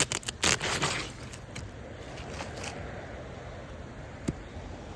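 Asphalt roof shingle being pried up and its nails worked loose: a quick run of cracks and scrapes in the first second, then one sharp click about four seconds in.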